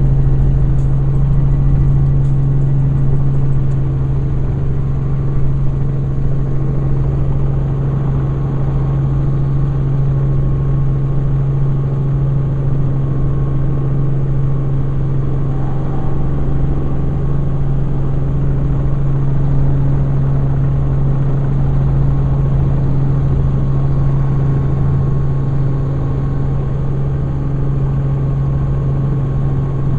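Helicopter engine and rotor running: a steady, loud drone with a strong low hum that holds throughout.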